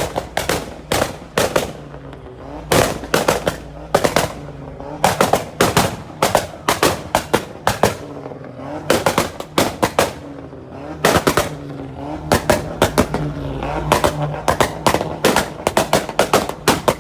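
A car engine revving with rapid strings of loud exhaust pops and bangs, coming in irregular bursts of several sharp cracks each.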